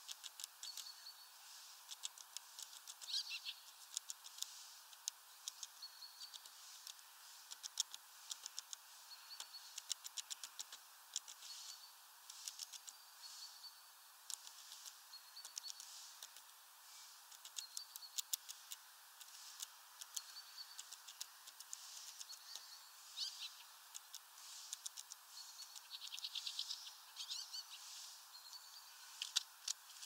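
Small songbird giving short, thin, high call notes, repeated every second or two, among many fast dry ticks.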